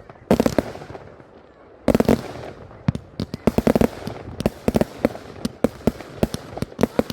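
Fireworks going off: an irregular run of sharp bangs and cracks, with heavier clusters of bangs about a third of a second, two seconds and three and a half seconds in.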